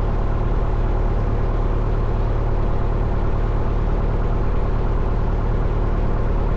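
1972 Cessna Skyhawk's four-cylinder Lycoming piston engine idling steadily on the ground, a low, even drone.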